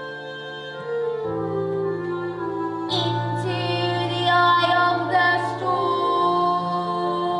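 Music: sustained keyboard chords changing every couple of seconds, with a solo female voice singing held, wavering notes over them, strongest in the middle.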